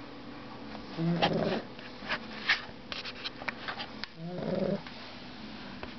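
Dog snoring: two pitched, wavering snores about three seconds apart, each lasting a little over half a second. Between them comes a scatter of short, sharp clicks.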